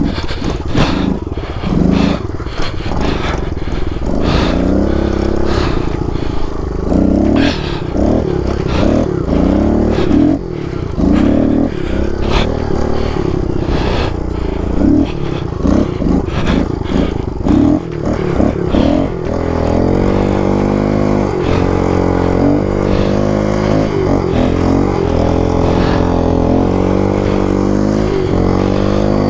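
Kawasaki KLX110 pit bike's small single-cylinder four-stroke engine revving up and dropping back again and again as it is ridden hard, with sharp knocks and clattering mixed in. From about two-thirds of the way in, the engine holds a steadier, sustained note.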